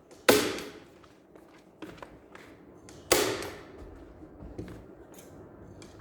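Two sharp, loud clacks about three seconds apart, each trailing off in a short hiss, among lighter clicks and knocks of work.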